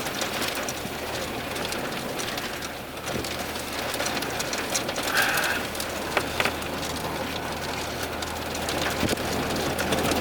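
Steady rain, with many scattered sharper hits of drops, over a low steady hum.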